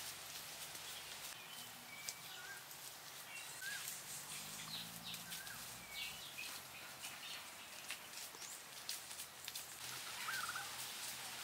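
Outdoor woodland sound: a bird gives short chirps a few times over a faint hiss. Scattered soft clicks and pats come from hands smoothing wet mud over a bamboo frame.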